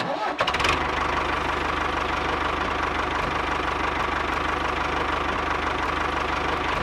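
Tractor engine running steadily with a fast, even chugging, starting abruptly as the music ends.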